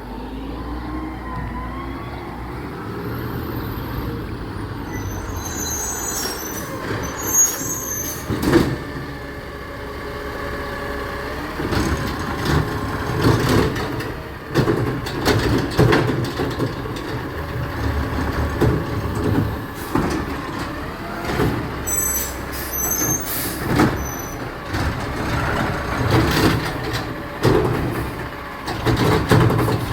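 Garbage truck at work: its engine running under repeated clanks and knocks, with short high squeals twice, once early and once past the middle.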